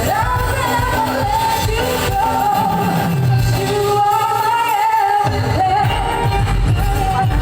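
A singer performing with musical accompaniment, the melody sung in long held notes with vibrato; the low bass drops out for about a second midway, then comes back.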